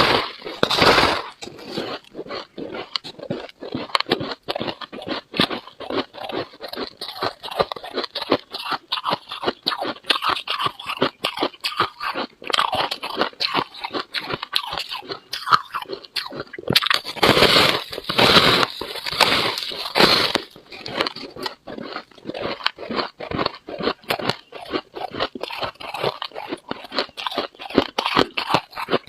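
Freezer frost being bitten and chewed: a dense run of crisp crunches, louder for a few seconds a little past the middle.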